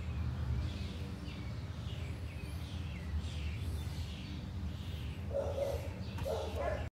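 Outdoor ambience: small birds chirping over a steady low rumble, with a short lower sound about five and a half seconds in, then the sound cuts off abruptly just before the end.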